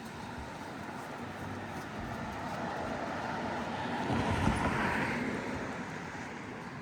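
A car driving past, growing louder to a peak about four and a half seconds in, then fading away.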